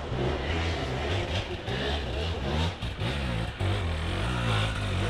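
Hard enduro motorcycle engine revving in repeated bursts of throttle, its pitch rising and falling as the rider works the bike through a steep rocky forest section.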